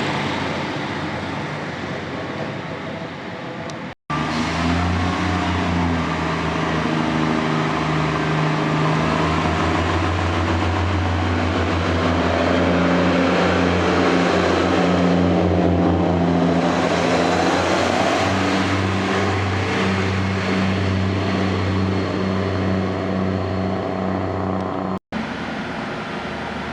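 Diesel train engine running steadily with a deep hum, the train passing close by around the middle. The sound cuts off abruptly for an instant about four seconds in and again near the end.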